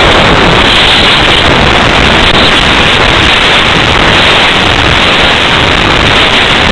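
Loud, steady rush of wind over the microphone of a small camera riding on a radio-controlled slope-soaring glider in flight.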